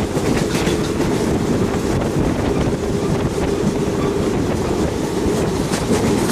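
Train running on the rails: a steady, loud low rumble with faint clicks.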